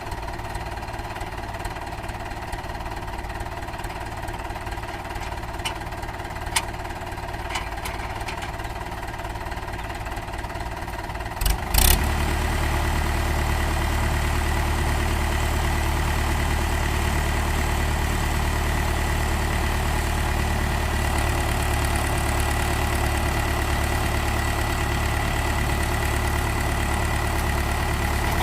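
Mahindra 575 DI tractor's four-cylinder diesel engine running steadily. A little before halfway, after a brief knock, it becomes louder and deeper and holds at that level.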